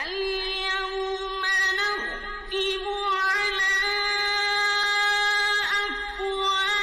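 Background music: a single high voice singing long, held notes, gliding and bending briefly between them.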